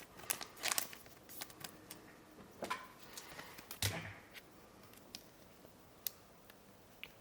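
Pokémon trading cards and packaging handled on a table: scattered rustles and light clicks, a soft thump about four seconds in, then only a few faint ticks.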